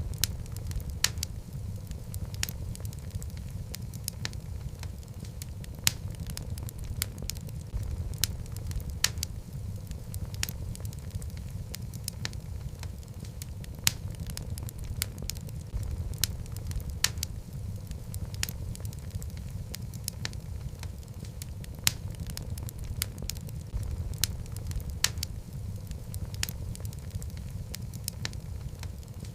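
Wood logs burning in a fireplace: a steady low rumble of flames with frequent irregular crackles and occasional louder pops.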